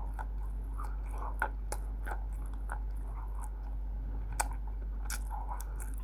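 Roasted multani mitti (fuller's earth clay) being bitten and chewed: sharp, crisp cracks at irregular intervals, the loudest about four seconds in, between softer crunching chews.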